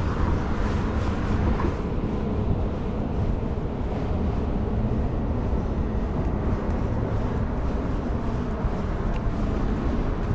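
Steady low rumble of city vehicle noise, with a faint engine-like hum underneath.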